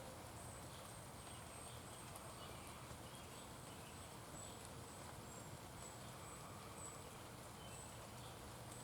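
Faint outdoor ambience: a steady low hiss with a string of short, very high-pitched chirps repeating about twice a second.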